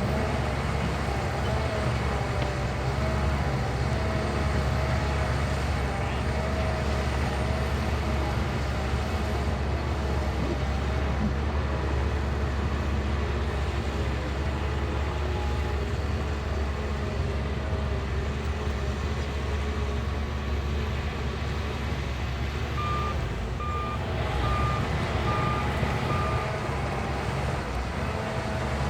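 Shantui crawler bulldozer's diesel engine running steadily, with its reversing alarm beeping about five times near the end as the dozer backs up.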